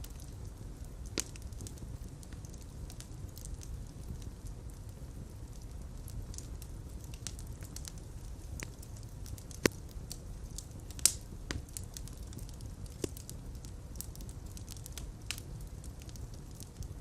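Fire crackling in a fireplace: a steady low rumble of flames with scattered sharp pops. Two louder pops come about a second apart past the middle.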